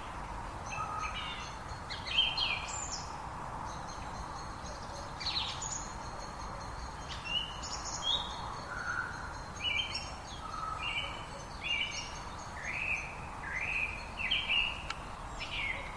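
Several songbirds chirping and singing in quick, overlapping short phrases over the steady rush of a flowing river.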